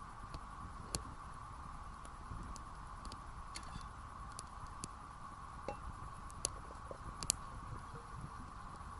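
Wood campfire crackling, with scattered sharp pops; the loudest come about a second in and near the end.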